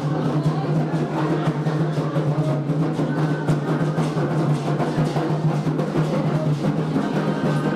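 Candomblé atabaque drums playing a dense, continuous ritual rhythm.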